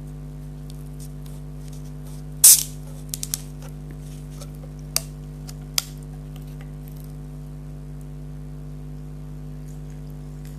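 Steady electrical mains hum, with one short hiss about two and a half seconds in and a few light clicks and taps after it.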